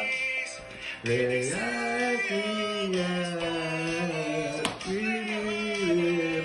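A man and a woman singing a song together, holding long notes.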